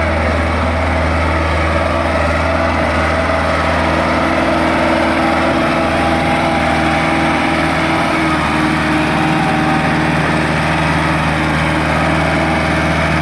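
Massey Ferguson 385 tractor's diesel engine running steadily at an even speed.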